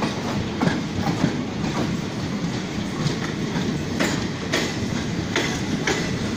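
Passenger train running, heard from an open coach window: a steady rumble with the clickety-clack of wheels over rail joints, sharp clicks coming at irregular intervals.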